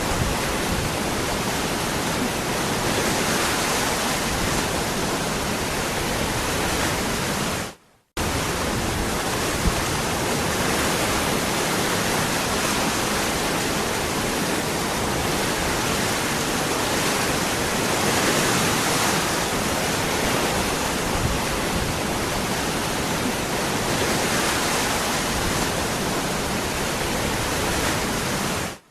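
Waterfall rushing steadily. About eight seconds in it fades out to a moment of silence, then cuts back in abruptly.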